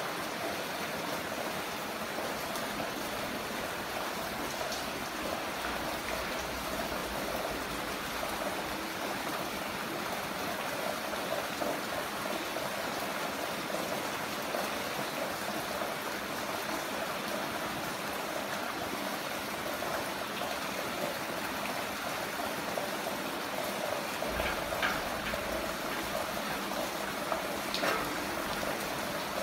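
Heavy rain falling steadily, a constant rushing hiss, with a few brief sharper ticks of drops near the end.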